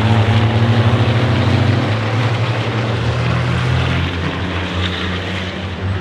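Race trucks' diesel engines running hard at speed, a steady low engine drone whose pitch shifts a couple of times as the revs change.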